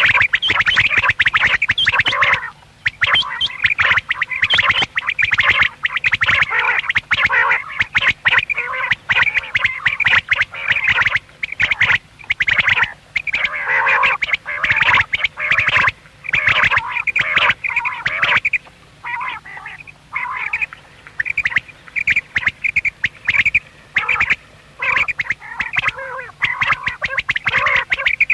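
Common quails calling in a rapid, dense chatter of short repeated notes, with a few brief pauses, the longest a little after halfway.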